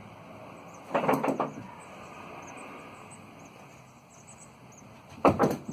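Two short clusters of knocks and rattles, about a second in and again near the end, over faint bird chirps.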